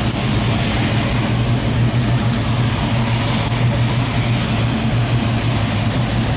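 A car engine running steadily at low revs, a loud, steady low hum with no rise or fall in pitch.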